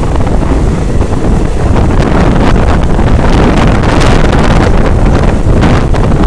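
Heavy wind buffeting the microphone over the low rumble of a moving passenger train, with loud irregular gusts.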